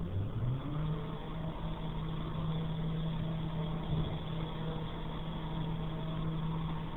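Car wash machinery motor spinning up, its hum rising in pitch over about the first second and then running steadily, stopping shortly before the end.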